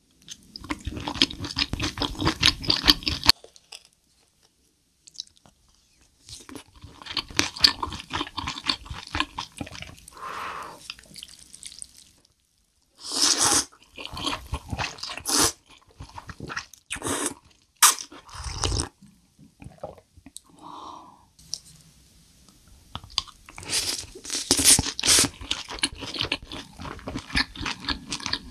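Close-miked chewing and wet mouth sounds of a person eating, in bursts separated by short silent pauses. Around the middle, noodles are slurped from a bowl.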